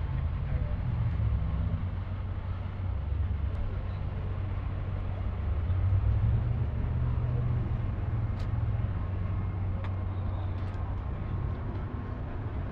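Vehicle engine running at idle, a steady low rumble, with faint voices in the background.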